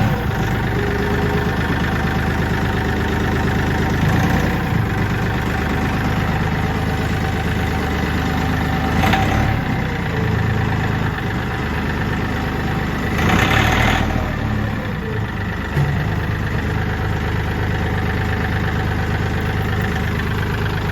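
Kioti CK4010 tractor's diesel engine idling steadily, with two brief louder rushes of noise partway through, the longer one about two-thirds of the way in.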